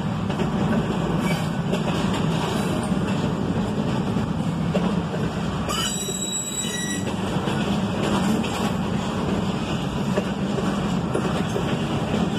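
Loaded double-stack intermodal well cars rolling past, making the steady noise of steel wheels on the rails. A brief high wheel squeal comes about halfway through.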